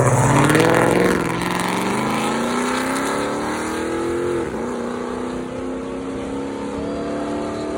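Car engine and exhaust passing loudly, then pulling away under hard acceleration: the pitch climbs for a few seconds, drops at about four and a half seconds as it shifts gear, and climbs again.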